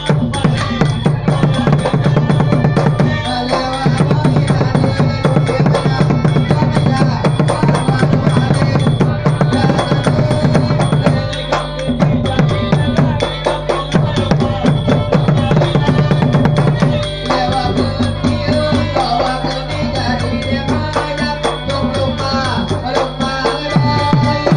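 Southern Thai Nora (Manora) ensemble music: fast, continuous hand-drum playing over a steady low tone, with sharp metallic ticks on top.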